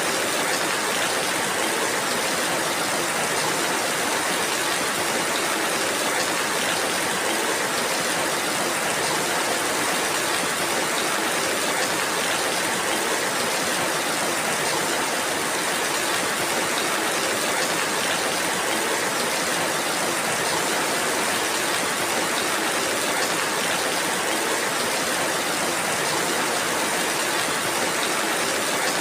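Steady rainfall: an even, unbroken hiss of rain with no single drops or other events standing out.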